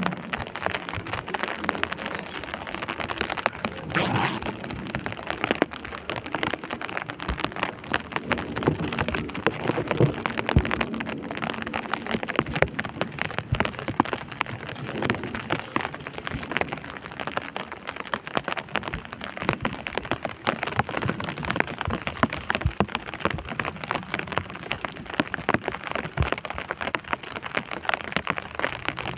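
Rain pattering steadily on a surface, a dense run of small irregular taps, with a few louder patches along the way.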